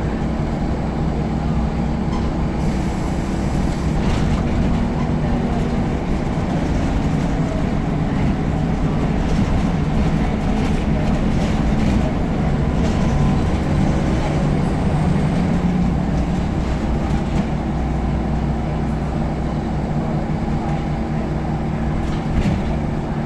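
Scania L94UB bus's 9-litre five-cylinder diesel engine running steadily, a low droning rumble with occasional light rattles and knocks from the body.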